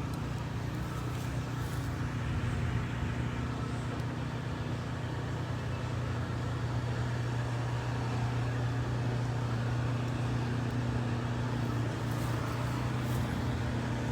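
A vehicle engine running steadily at idle, an even low-pitched drone with no change in speed.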